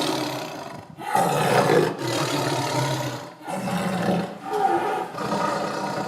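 Loud animal calls, one after another, each lasting about a second with short breaks between them.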